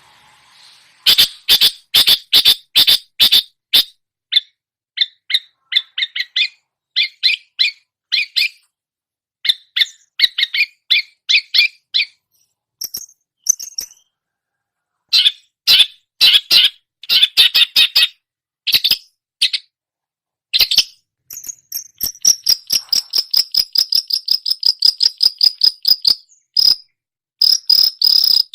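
Long-tailed shrike (cendet) singing its mimicking song: loud bursts of short, sharp notes, several a second, broken by pauses, and after about two-thirds of the way a fast, even run of rapid repeated notes.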